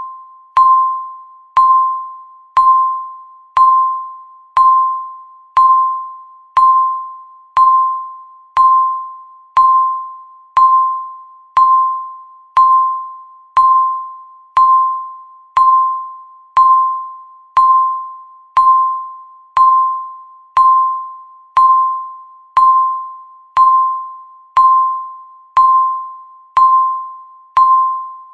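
Countdown timer's electronic tick: a short bell-like beep near 1 kHz struck once per second, each ringing out and fading before the next, in a steady even rhythm.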